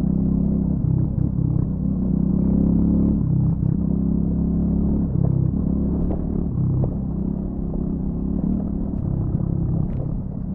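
Triumph Scrambler 400X's 398 cc single-cylinder engine running through its stock exhaust while riding off-road, the throttle opening and closing so the engine note rises and falls. A few sharp clicks come through, twice plainly near the middle and again near the end.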